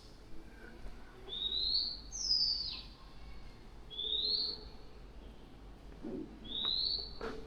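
A songbird calling: short clear whistled notes, one sliding down and three rising, about every one to two seconds. A short knock comes just before the end.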